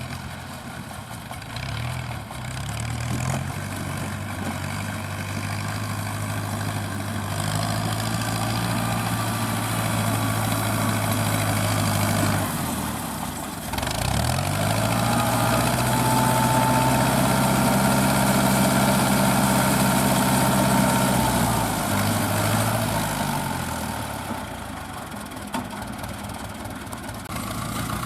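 Fiat 640 tractor's diesel engine working a straw roll baler, revving up and holding steady under load, with a brief drop in speed about halfway through and another drop near the end before it picks up again.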